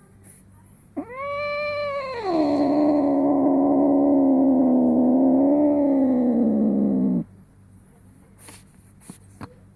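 Female cat in heat giving one long, drawn-out call, the moaning caterwaul of estrus. It opens on a higher note, drops after a second to a lower, louder held moan that wavers slightly, and stops suddenly about seven seconds in.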